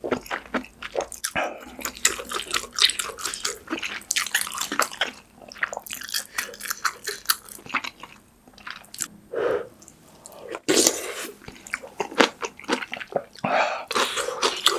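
Close-miked wet chewing of kimchi stew with ramen noodles and kimchi, with crunches mixed in: quick, irregular mouth sounds.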